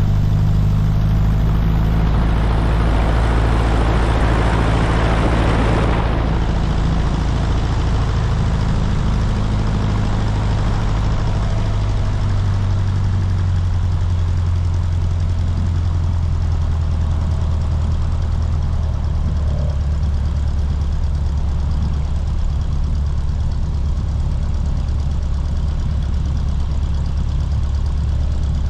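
Cessna 150's four-cylinder piston engine running steadily at low power with its propeller turning, heard as a constant low drone. A rushing swell rises and fades in the first few seconds, and the engine note steps slightly lower about halfway through.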